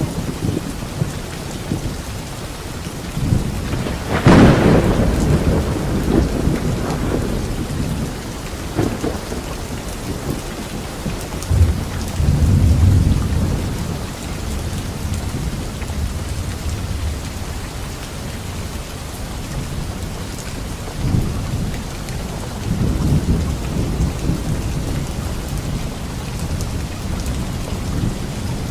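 Steady rain with thunder: a sharp thunderclap about four seconds in trails off into rumbling, and further low rolls of thunder follow around the middle and again near the end.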